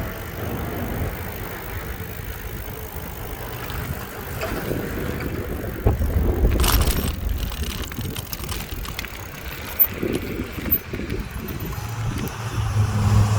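Wind rumbling over the microphone of a camera carried on a moving bicycle, with tyre and road noise and a few sharp clicks or knocks, about six seconds in and again near ten seconds.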